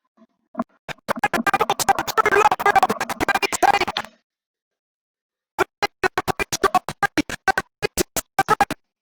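Audio of a Formula One video clip breaking up over a failing internet connection. It comes through as rapid, chopped fragments that sound like glitchy music, drops out for about a second and a half midway, then returns as a string of short stuttering stabs.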